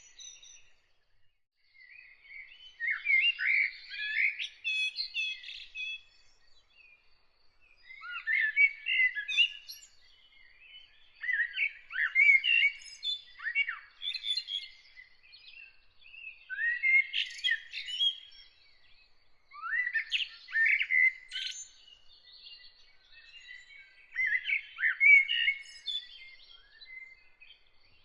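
A songbird sings in repeated warbling phrases of two to three seconds with short pauses between them, about eight phrases in all. A faint, rapid series of thin high notes carries on in the background.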